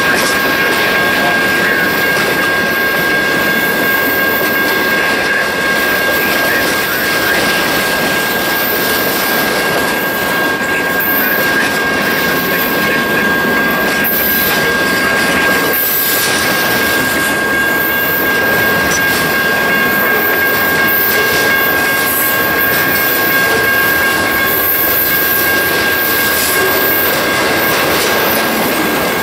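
Freight train rolling past: the steel wheels running on the rail make a steady, loud rushing noise with some clickety-clack, and a thin, steady, high-pitched whine rings on top.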